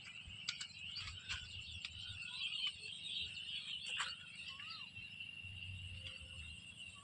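Outdoor countryside ambience: a steady high-pitched insect chorus, with a few short bird chirps and scattered ticks.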